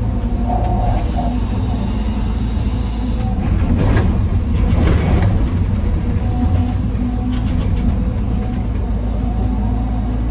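Heavy diesel machinery running steadily with a low drone, and a louder rough clatter for about two seconds around four seconds in.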